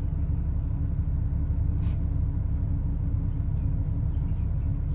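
Porsche 996 Carrera's flat-six engine idling, a steady low rumble heard from inside the cabin.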